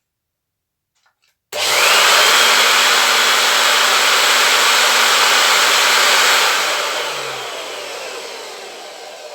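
Motor of a 1975 Soviet Uralets vacuum cleaner, opened up for repair, switched on about a second and a half in. It whines up to speed and runs steadily and loudly, then is switched off and winds down with a falling whine. It is running properly after its brushes were serviced.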